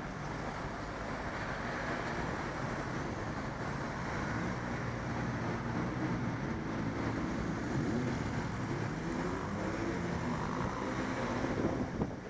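Wind rushing over the microphone while cycling in road traffic, with a motor vehicle's engine running close by, its pitch wavering up and down through the middle.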